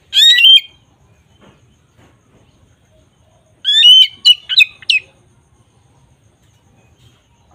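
A bird chirping: a short burst of chirps at the start, then a longer phrase of quick, rising chirps about three and a half seconds later.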